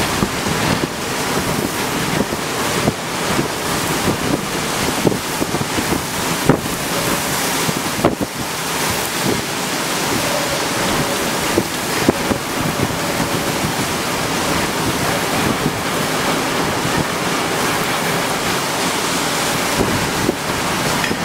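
Storm wind and rough sea rushing steadily, the wind buffeting the microphone with frequent short knocks.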